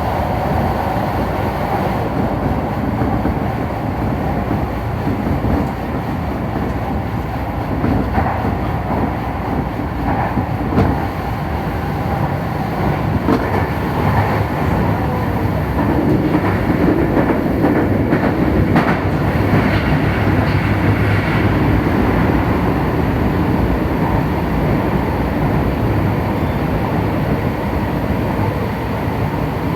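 Tokyu Den-en-toshi Line train running, heard from inside the front car: a steady rumble of wheels on rail with scattered clicks over rail joints, thickest in the middle stretch.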